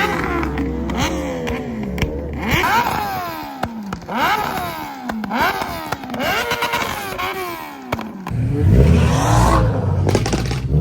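Car engine revved hard several times, its pitch climbing steeply and dropping back between revs, with a heavy low rumble underneath at the start and again near the end.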